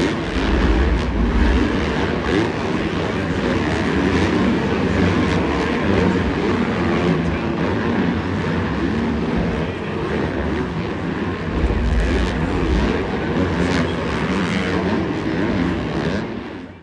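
Many supercross dirt bike engines running together at race speed, making a loud, dense mechanical noise that swells and eases. It cuts off suddenly at the very end.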